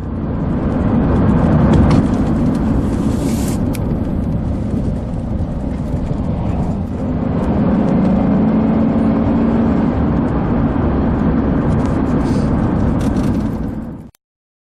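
Car driving on a highway, heard from inside the cabin: steady engine and tyre noise, with a few sharp clicks about two to three seconds in. The sound cuts off suddenly near the end.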